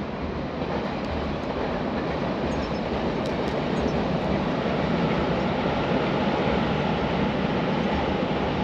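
A train passing on the line, a steady rumble that grows slowly louder.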